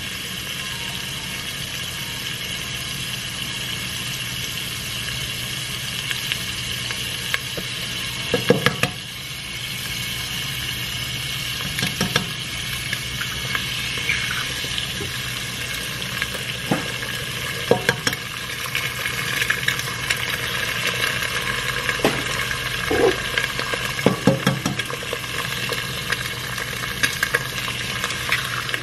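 Food sizzling steadily in a hot pan on an electric stove. A handful of short clicks and knocks of a utensil against the cookware sound at irregular moments.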